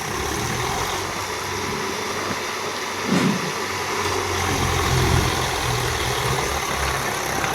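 Diesel tractor engine running steadily, growing a little louder for a second or so around the middle.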